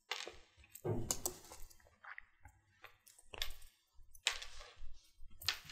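Small metal jewellery parts and tools handled on a work surface: a string of irregular light clicks and clinks with rustling in between, from pliers, jump rings and chain.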